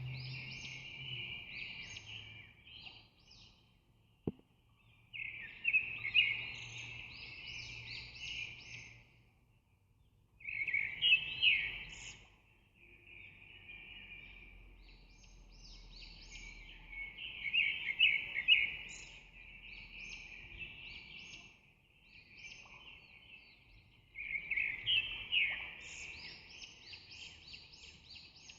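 Small birds chirping and twittering in bursts a few seconds long, with short pauses between them, and a single click about four seconds in.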